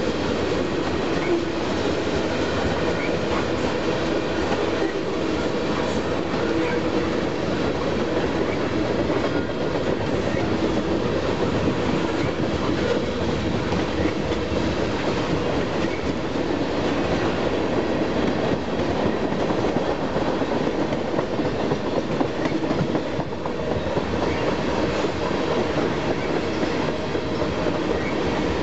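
Freight train tank cars rolling past steadily, their steel wheels running over the rails in a continuous rumble.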